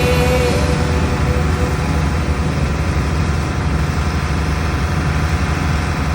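Heavy farm machinery engine running steadily with a low rumble, while the last notes of music fade out in the first second.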